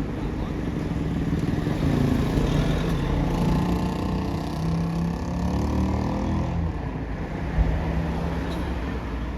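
A motor vehicle's engine running close by, its pitch sinking slightly around the middle as it passes or moves off, over tyre and road noise. A single short knock near the end.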